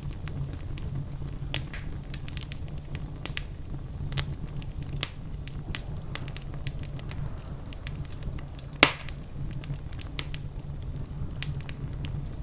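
Fireplace fire crackling: scattered sharp pops over a steady low rumble, with one much louder pop about nine seconds in.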